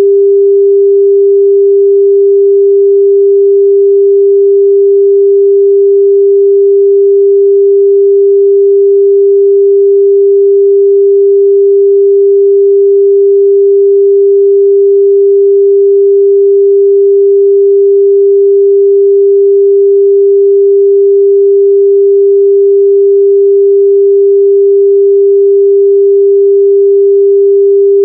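A steady, loud 398 Hz sine-wave test tone: one pure pitch held without change, with no other sound.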